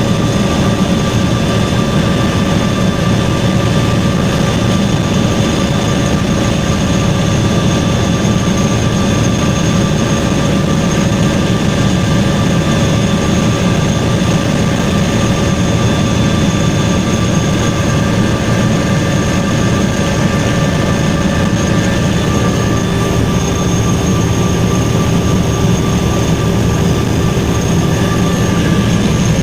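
Helicopter running steadily in flight: a dense low drone from the rotor and engine, with several steady high-pitched whines above it.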